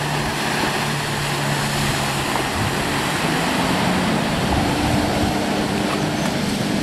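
Jet ski engine running out on the water, its note stepping up about halfway through, over a steady rush of wind and water.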